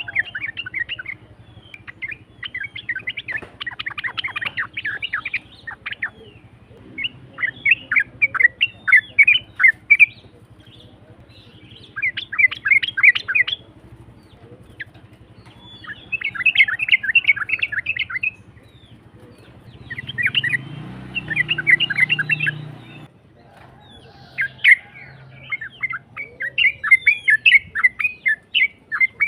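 Yellow-vented bulbul (trucukan) singing in a rough voice: rapid chattering phrases of quick notes, each a second or two long, with short pauses between. A low rumbling noise sits under the song for a few seconds about two-thirds of the way through.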